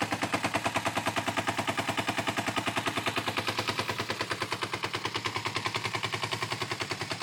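2004 Kawasaki Ninja 250's parallel-twin engine idling steadily just above 1,000 rpm once fully warmed up, a fast, even beat of exhaust pulses.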